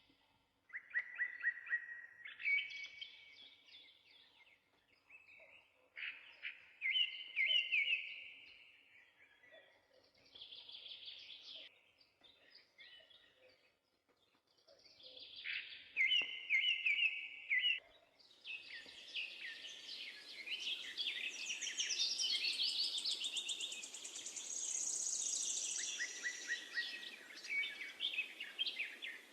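Songbirds singing in short, repeated phrases a few seconds apart. About two-thirds of the way through, a steady rushing hiss comes in underneath and the birdsong thickens.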